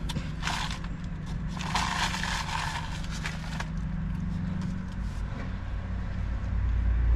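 Steady low hum of a car heard from inside the cabin, with rustling and scraping, like food packaging being handled, briefly about half a second in and again from about one and a half to three and a half seconds in.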